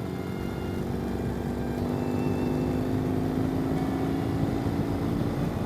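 Ural sidecar motorcycle's air-cooled boxer twin running steadily under way, its note climbing slightly in pitch and then holding.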